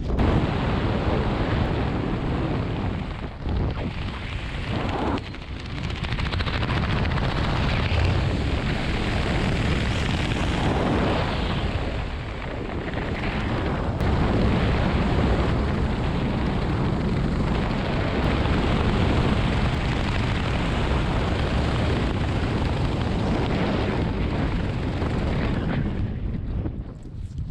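Heavy wind rushing and buffeting over a skydiver's camera microphone in freefall, a loud steady roar that swells and dips, easing slightly near the end.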